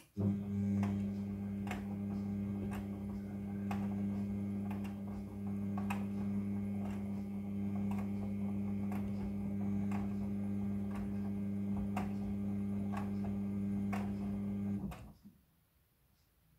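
Midea front-loading washing machine's drum motor running with a steady hum, turning the drum through one tumble stroke of the wash, with a light tick about once a second. It starts suddenly and stops about fifteen seconds in.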